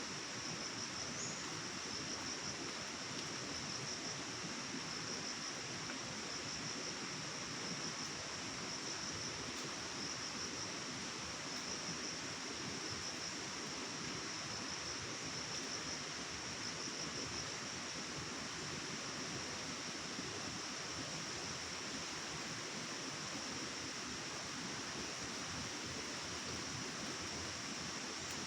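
Steady rush of flowing stream water, with a continuous high, faintly fluttering buzz over it.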